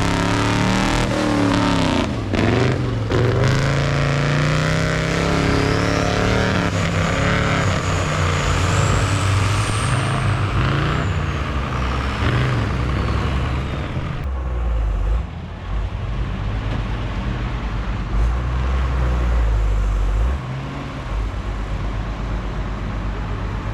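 Big off-road race truck engines revving hard and labouring, their pitch rising and falling, with a high whistle that climbs and then falls around the middle. The second half settles into a lower, steadier engine rumble.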